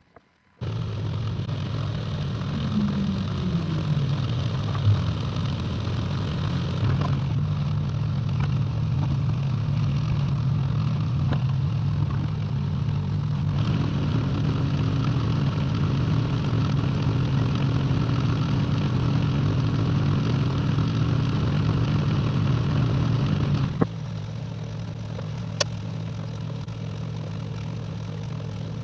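Excavator diesel engine running steadily under work, with a brief falling pitch about three seconds in. Its level drops suddenly about 24 seconds in and it carries on at a lower, quieter level.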